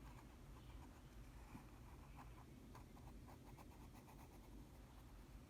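Very faint pencil scratching on paper, with a run of short, light strokes through the middle.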